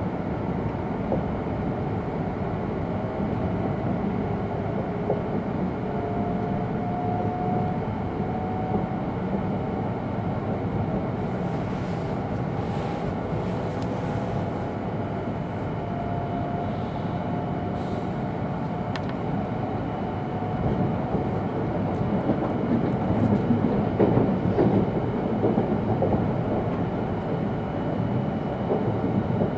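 Interior running noise of an E2 series Shinkansen passenger car: a steady low rumble of wheels on rail and air noise with faint whining tones, growing a little louder and more rattly about three-quarters of the way through.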